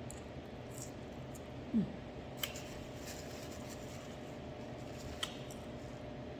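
A person eating and drinking: a brief low falling throat sound about two seconds in and two sharp mouth clicks, over a steady low room hum.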